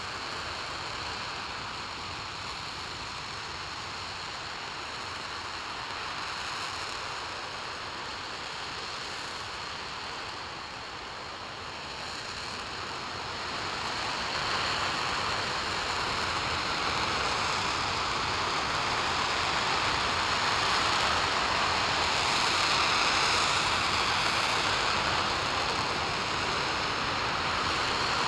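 RS-25 liquid-hydrogen/liquid-oxygen rocket engine firing on a test stand: a continuous, dense rushing noise with no tone or rhythm, growing louder about halfway through.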